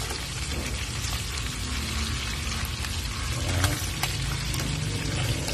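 Chicken adobo pieces frying in oil in a wok: a steady crackling sizzle.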